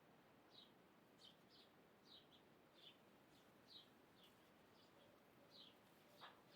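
Faint bird chirping: short, falling high notes repeated about twice a second over a steady hiss, with one louder, sharper note about six seconds in.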